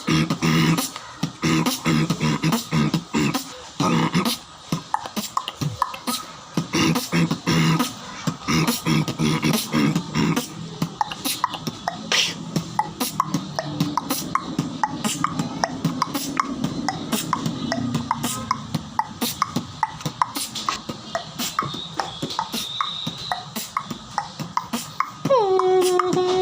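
Vocal beatboxing: rapid mouth-made kicks, snares and clicks in a fast rhythm, with a hummed pitch under the beats for roughly the first ten seconds. A long steady held note comes in near the end.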